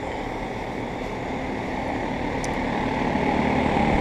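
Three Carrier central air conditioner condensers running together: a steady fan rush with a low compressor hum, growing louder near the end.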